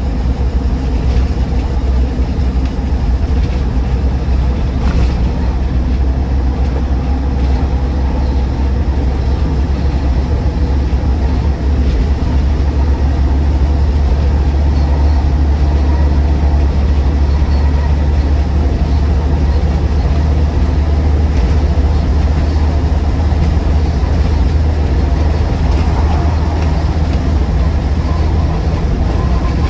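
Cabin noise of a Land Rover Defender 90 TD5 on the move: its five-cylinder turbodiesel engine and tyres on the road make a steady, loud low drone.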